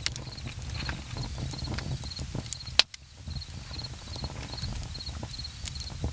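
Wood campfire crackling, with irregular small pops over a low rumble and one loud sharp pop about three seconds in. A cricket chirps steadily in the background in short high trills.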